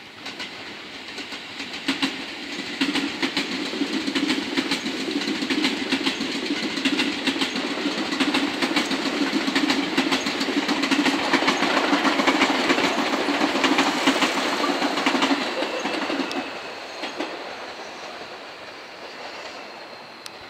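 Seibu 40000 series electric train passing close by, its wheels clattering over the rail joints above a steady low hum. The sound builds over the first dozen seconds and fades away after about 16 seconds.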